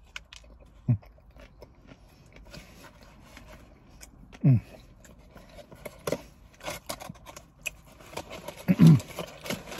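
Chewing a mouthful of burger, with three short closed-mouth hums that fall in pitch, about a second in, midway and near the end. Between them a paper receipt and a cardboard burger box crinkle and rustle as they are handled.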